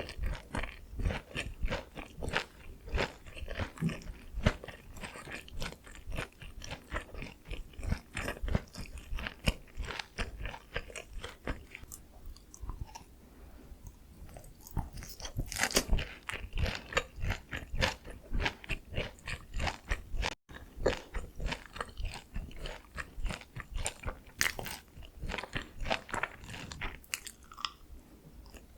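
Close-miked crunching and chewing of sweet soy sauce-glazed Korean fried chicken (dakgangjeong): irregular crisp crackles of the fried coating being bitten and chewed, easing off for a few seconds around the middle before picking up again.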